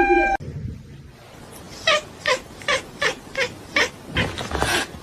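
A crow from a rooster breaks off about half a second in. Then a pet animal, a cat or small dog, gives a quick run of about eight short, rasping calls, roughly three a second.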